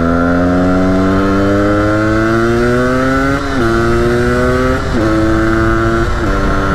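Yamaha DT125X's two-stroke single-cylinder engine pulling under throttle, its pitch climbing steadily for about three seconds. It then drops sharply at a gear change and dips twice more, briefly, as the bike settles to a steady cruise.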